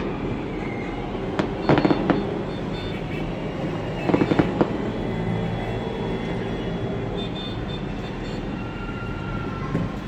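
Fireworks going off in short clusters of sharp bangs, at the start, about a second and a half in and again around four seconds in, over a steady low rumble of background noise.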